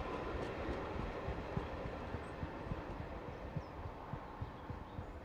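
Train of passenger coaches rolling past and away, a low rumble with irregular clicks of wheels over rail joints, fading as the last coach goes by.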